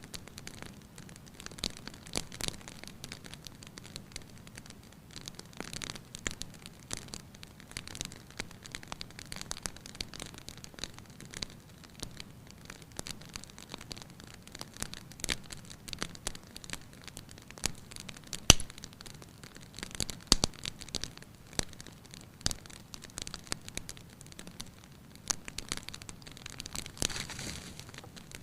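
Wood fire crackling in a fireplace: irregular pops and snaps over a soft steady hiss, with one sharp louder pop about eighteen seconds in.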